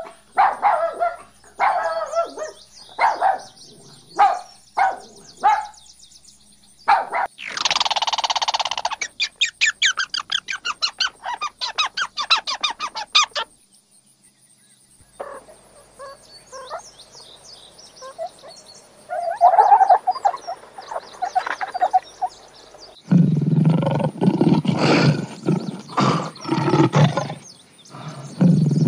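A string of short animal-call clips, one after another, with a brief quiet gap partway through. From about two-thirds of the way in, a lion gives deep, repeated grunting roars.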